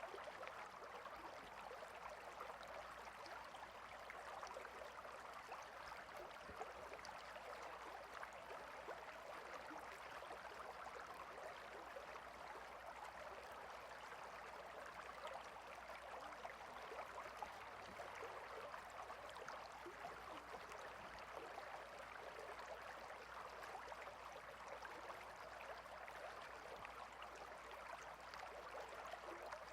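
Stream water flowing and babbling steadily, faint and unchanging.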